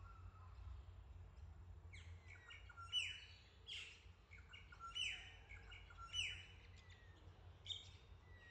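Wild birds calling, a run of short sharp calls that sweep down in pitch, coming about once a second from around two seconds in, over a low steady rumble.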